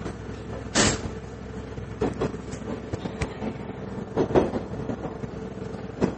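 Interior running sound of a KiHa 110 series diesel railcar on the move: a steady engine drone with a held hum, and wheels clacking over rail joints. There is a loud knock about a second in, then paired clacks around two and four seconds in and another near the end.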